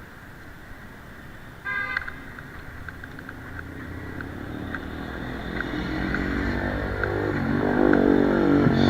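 A short car horn toot about two seconds in, then a motor vehicle's engine growing louder as it approaches and passes, its pitch dropping near the end.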